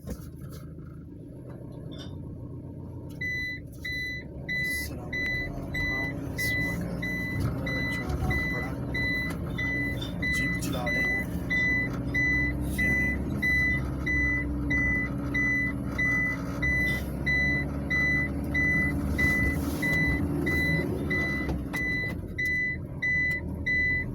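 Small truck's engine running with a low rumble. From about three seconds in, an electronic warning beeper sounds one even high beep after another, just under two a second.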